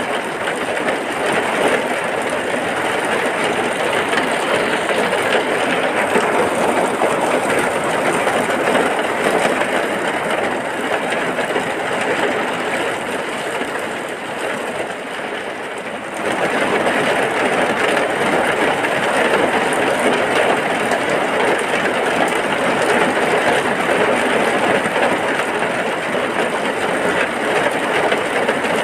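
Heavy rain falling as a steady, dense hiss. It eases slightly for a few seconds around the middle, then comes back up abruptly.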